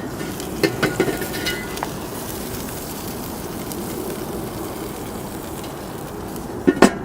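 Grilling tongs clinking against a barbecue grill: a quick run of metallic clinks about a second in and two more near the end, over a steady rushing background.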